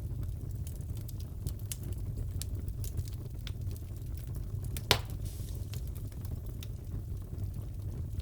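Crackling fireplace fire: a steady low rumble with scattered sharp crackles and one loud pop about five seconds in.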